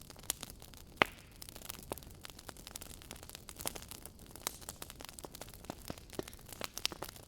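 Wood fire in a fireplace crackling: irregular sharp pops and snaps over a soft hiss, with one louder pop about a second in.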